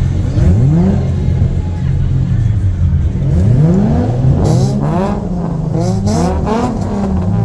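Car engine revving hard several times, pitch rising and falling in quick blips, with short hissing bursts between revs.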